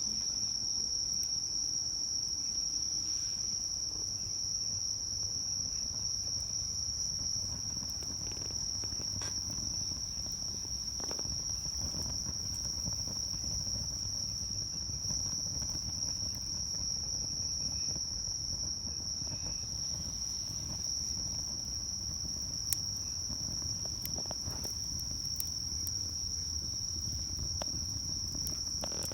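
A chorus of singing insects gives a continuous shrill high tone that never breaks. Under it runs the low rumble of a wood fire burning in a Solo Stove Campfire fire pit, with scattered small crackles and one sharper pop a little after twenty seconds.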